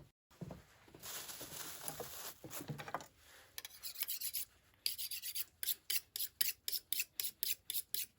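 Rasping, scraping rubs: a continuous rasp for about two seconds, then from about five seconds in quick, even rasping strokes, about three or four a second.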